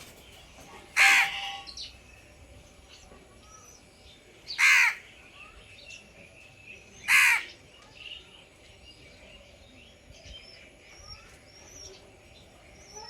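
A crow cawing three loud, harsh caws, spaced a few seconds apart, over faint scattered chirps of small birds.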